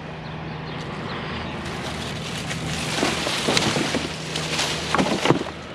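A steady low engine hum runs under rummaging through curbside junk, with a swell of rustling noise and a few short knocks of items being handled about three and five seconds in.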